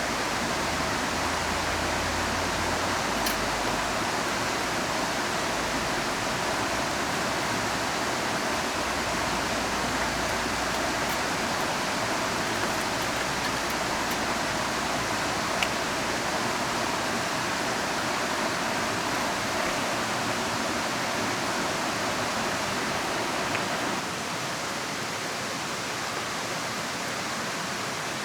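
Steady rushing of a river mixed with falling rain, an even wash of water noise with a few faint ticks; the level steps down slightly about four seconds before the end.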